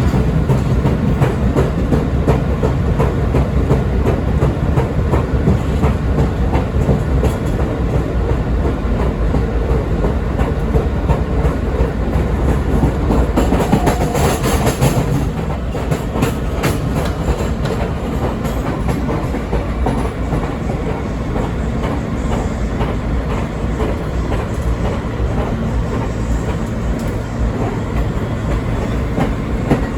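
R160B subway car with Siemens propulsion running between stations, heard from inside the car: a steady rumble with frequent wheel clicks over rail joints. About halfway through there is a brief louder stretch of hiss, and the run is a little quieter after it.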